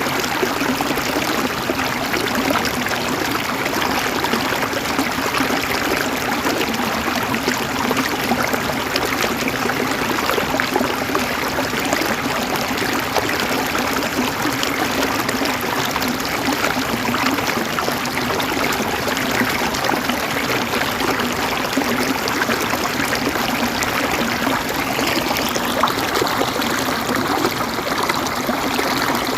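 River water flowing and gurgling over rocks in a steady, continuous rush.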